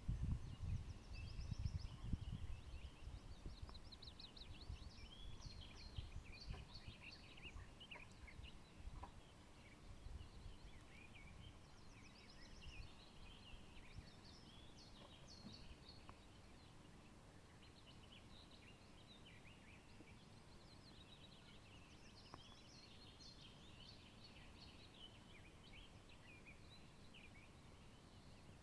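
Faint birdsong: several songbirds chirping and trilling in short high phrases, with a low rumble through the first several seconds that dies away.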